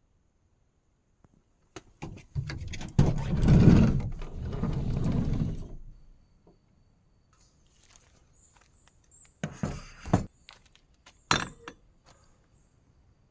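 Handling noise: a cluster of knocks and clatter lasting a few seconds, then a few separate knocks near the end.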